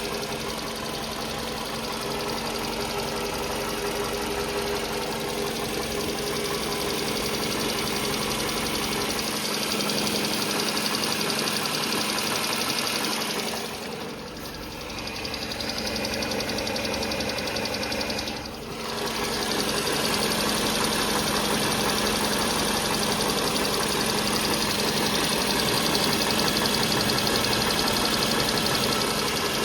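Toyota Camry XV40's 2AZ-FE 2.4-litre four-cylinder engine running steadily with an unexplained knock. The level dips briefly twice near the middle.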